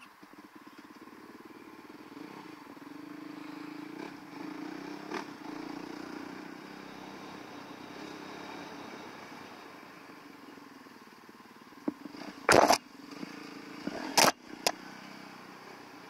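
2019 Yamaha WR450F's 450 cc single-cylinder four-stroke engine coming in sharply at the start and running steadily, louder for a few seconds early on. About three quarters of the way through come four or so sharp, loud knocks, the loudest sounds of the stretch.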